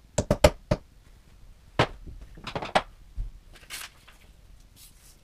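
Sharp knocks and clicks of bookcase parts being handled and fitted together: a quick cluster of four in the first second, then scattered knocks, a rattle and a dull thud.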